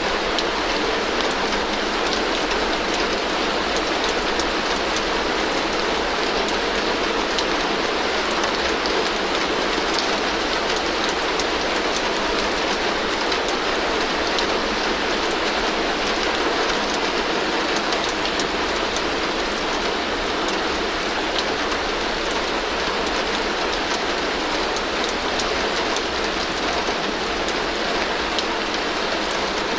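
Heavy rain falling steadily on a tin roof: a dense, even patter of drops on metal sheeting that holds the same strength throughout.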